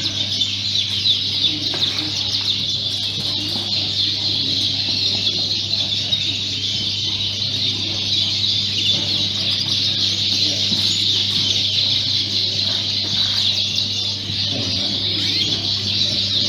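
Many Fife canaries chirping and trilling at once: a dense, unbroken high twittering, over a low steady hum.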